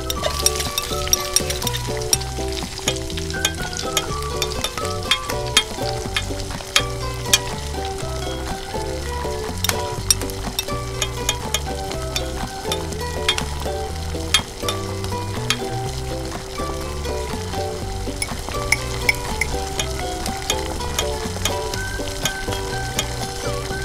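Vegetables sizzling in hot oil in a miniature stainless steel wok while a tiny spoon stirs them, with frequent light clicks of the spoon against the pan.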